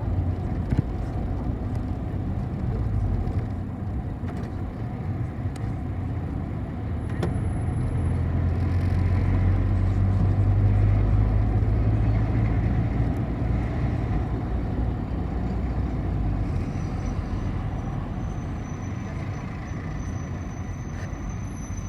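City bus engine and road noise heard from inside the passenger cabin while the bus is moving, a steady low rumble that grows louder toward the middle and eases off again after.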